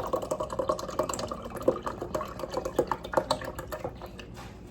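Juice poured into a measuring cup, splashing and gurgling steadily, stopping a little after four seconds in.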